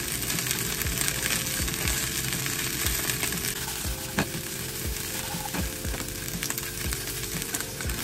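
Hot oil sizzling steadily as karaage (Japanese fried chicken) deep-fries, with occasional light clicks and knocks every second or so.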